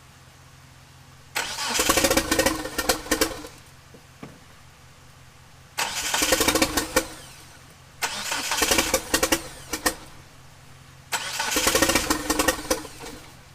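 Starter cranking the 1997 Eclipse GSX's turbocharged 4G63 four-cylinder in four tries of about two seconds each. Each try has a few sharp cracks, but the engine never catches. This is a crank-no-start that the owner puts down to an ignition timing problem at the cam angle sensor.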